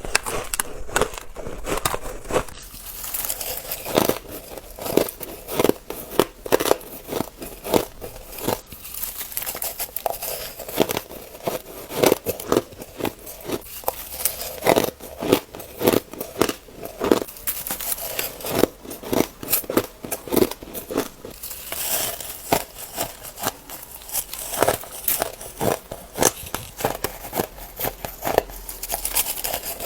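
Ice being bitten and crunched between the teeth: a dense run of sharp crackling crunches, several a second, with no pause.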